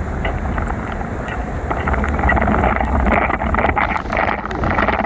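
Wind buffeting the microphone of a bicycle riding through heavy rain: a steady rush with a low rumble, the hiss of the wet road, and many scattered small ticks.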